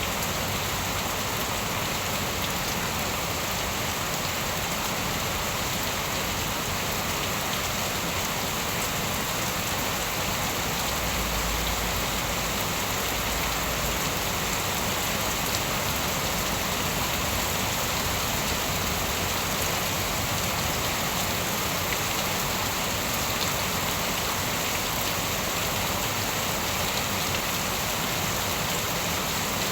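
Steady rain falling: an even, unbroken hiss with faint ticks of individual drops.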